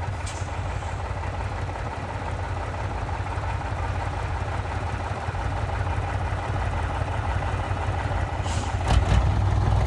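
Heavy truck's diesel engine running with a steady low rumble. A few brief knocks come near the end.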